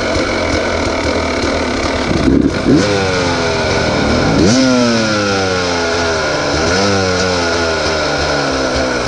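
Dirt bike engine running at idle and revved three times, each rev rising sharply and falling back, as its carburettor's air-fuel screw is being adjusted. A brief knock or rattle comes just before the first rev.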